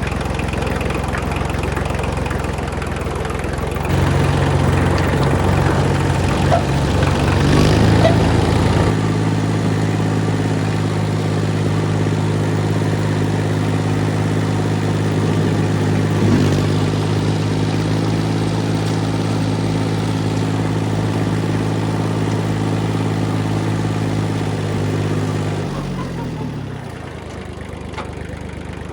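Kubota machine's diesel engine running, stepping up in speed about four seconds in and again around eight seconds, holding steady, then throttling down near the end.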